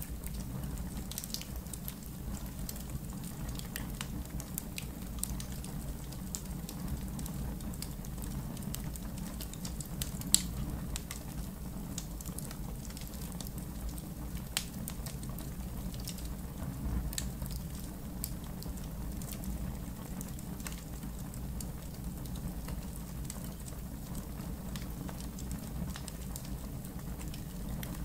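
Wood fire in a fire pit crackling steadily, with scattered sharp pops, the loudest about ten seconds in, over a low steady rumble.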